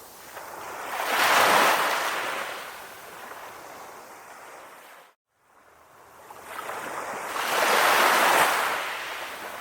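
Calm ocean waves washing onto the shore, two surges swelling and fading away. There is a brief gap of silence about halfway through.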